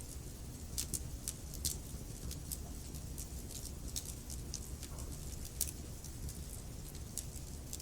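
Wood fire crackling, with irregular sharp pops and snaps a few times a second over a steady low rumble of the flames.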